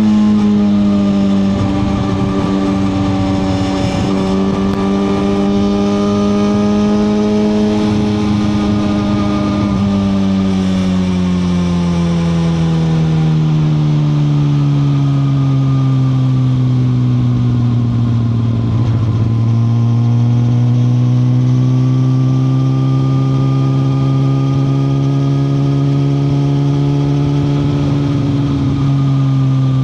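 Suzuki GSX-R1000R's inline-four engine running under way, its pitch easing down and up with the throttle through the ride, then falling slowly and holding steady near the end.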